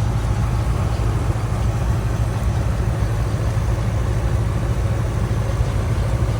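Steady low engine rumble, like a motor idling, under an even background hiss.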